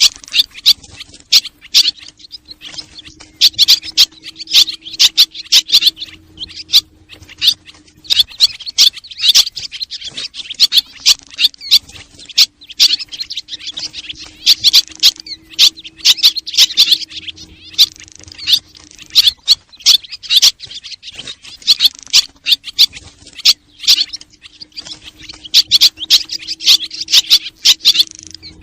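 Swallows calling: a dense, rapid chirping and twittering in clusters. The same passage repeats about every 11 seconds, with a faint steady low hum under most of each repeat.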